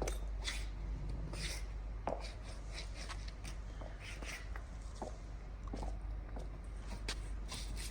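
Footsteps of high-heeled platform boots with lugged tractor soles on a dirty, gritty concrete floor: irregular heel strikes and scraping of the soles, about one to two steps a second, over a steady low hum.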